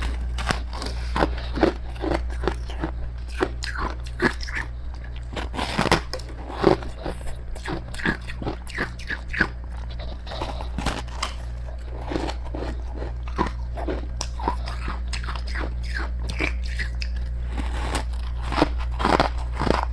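A person biting and chewing freezer frost ('snow ice') close to the microphone: a dense, irregular run of crisp crunches, over a steady low hum.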